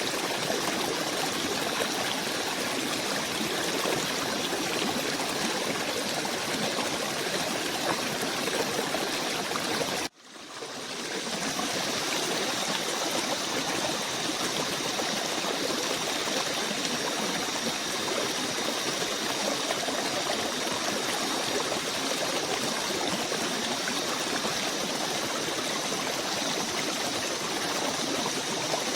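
A stream of running water, a steady rush. It cuts out suddenly about ten seconds in and fades back in over about a second.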